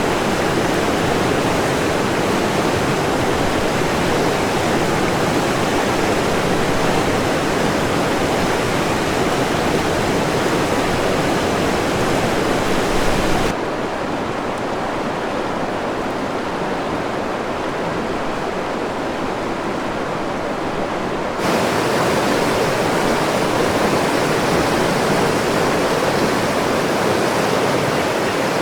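Rushing whitewater of the Kolvitsa River, a steady, full roar of falling and churning water. About halfway through it suddenly turns duller, with less hiss, for several seconds, then returns to the brighter roar.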